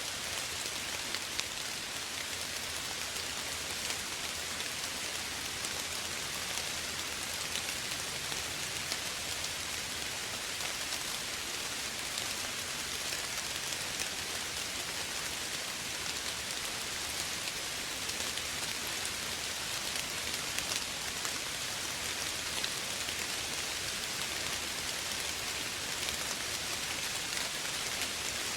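Steady, gentle rain falling on a surface, a constant hiss with scattered individual drop ticks.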